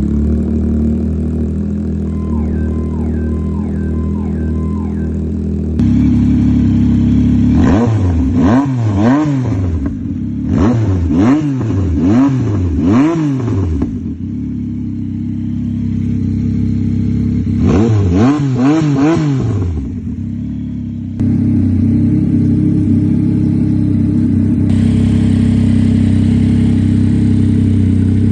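A 2024 Yamaha MT-09's three-cylinder engine, breathing through a new aftermarket exhaust, idles steadily. About eight seconds in it is revved in a rapid series of throttle blips, rising and falling in pitch. A couple more blips come near twenty seconds before it settles back to idle.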